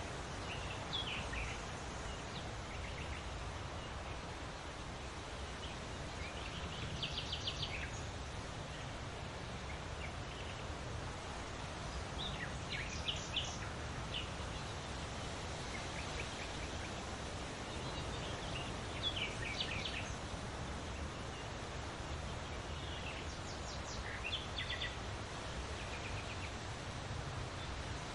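Birdsong: a bird gives a short run of quick, high chirps about every six seconds, five times, over a steady rustling hiss of background noise.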